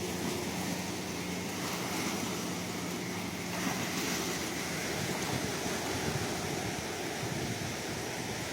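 Ocean surf: a steady wash of waves with no breaks between them.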